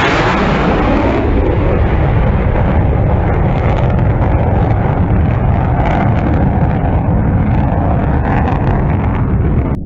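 Fighter jet on a low flyover: a loud jet roar whose hiss fades about a second in, leaving a heavy rumble as it draws away, with wind buffeting the microphone.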